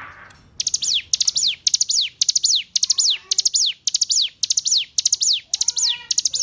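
Ciblek gunung (a mountain prinia) singing loud, rapid, repeated phrases of a few quick high notes that sweep downward, about two phrases a second. Lower sliding notes join in near the end.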